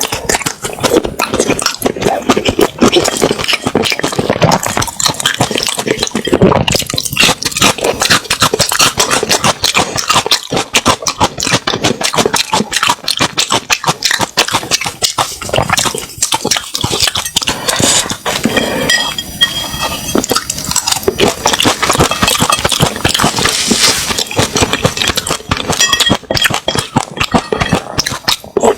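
Close-miked eating of spicy seafood: a continuous run of wet chewing, smacking and crunching, made up of dense small crackling clicks.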